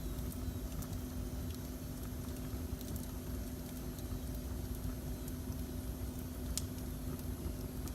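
Wood fire burning in a fireplace: a steady low rumble with a few sharp, scattered crackles, over a faint steady hum.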